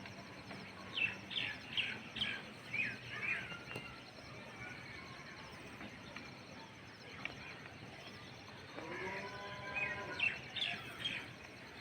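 Birds calling over a steady background hum: a quick run of short, sweeping chirps about a second in, then another burst of chirps near the end along with a lower, arching call.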